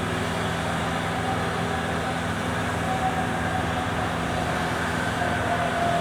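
Steady vehicle drone with a low engine hum, and a faint higher whine that comes in about halfway through and again near the end.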